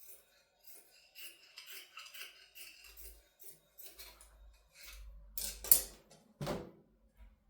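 Scissors snipping, with short clicks and a louder clack of something being handled or set down about two-thirds of the way through.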